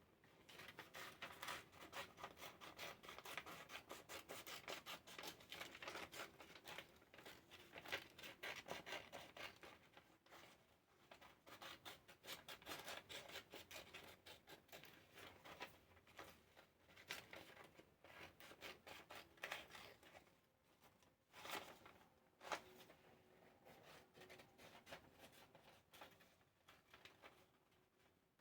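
Scissors snipping through paper, faint, many quick cuts in runs broken by short pauses.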